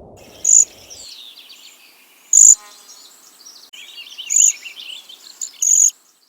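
Small birds chirping and twittering, with four loud, short, high-pitched calls standing out among many quieter chirps.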